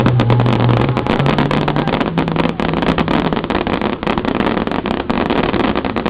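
Fireworks crackling: a dense barrage of many sharp, rapid pops over a continuous hiss, from a burst of crackling stars.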